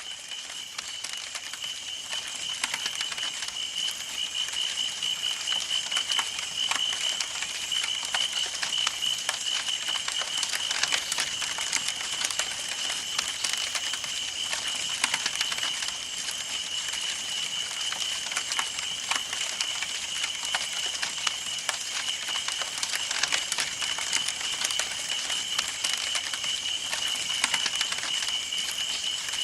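Campfire burning: wood crackling and popping in a dense, irregular run of sharp snaps over a soft hiss, with a steady high-pitched tone underneath. It fades in over the first couple of seconds.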